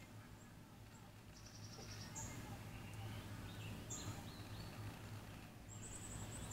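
Faint high chirps and short rapid trills from small birds, a few scattered notes with a quick trill near the end, over a steady low hum.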